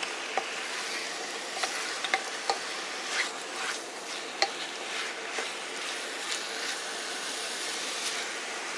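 Chicken, red curry paste and bamboo shoots sizzling in a hot pot while being stirred, the stirring utensil tapping and scraping against the pot now and then, less often after about five seconds.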